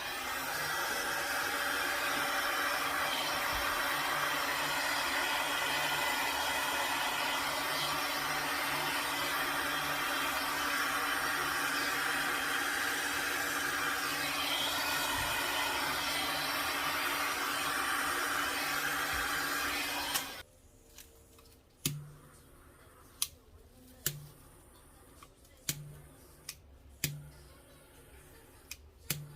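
Hot-air blower (heat gun or hair dryer) running steadily with a motor whine, pushing wet resin into waves, then switched off suddenly about two-thirds of the way in. After it, a handful of sharp clicks or taps about a second apart.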